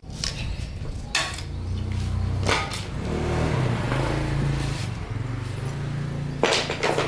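Old diesel engine running with a steady low hum, its pitch shifting around the middle as the speed changes, while metal parts clank sharply a few times.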